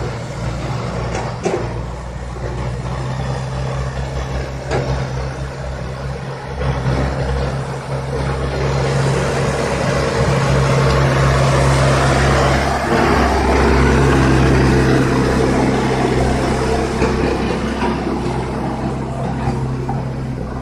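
CASE backhoe loader's diesel engine running steadily, rising in level and working harder for several seconds in the middle, with a few sharp knocks early on.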